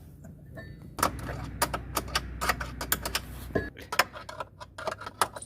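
Rapid, irregular metallic clicking of a socket wrench loosening the nuts on a top-load washing machine's clutch assembly, starting about a second in.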